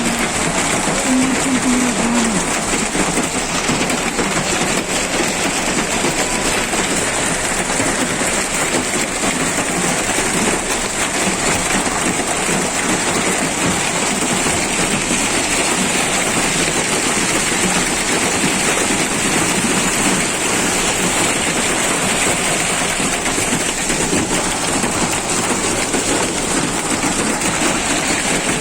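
Hailstorm: a dense, steady patter of hailstones and rain beating down on surfaces.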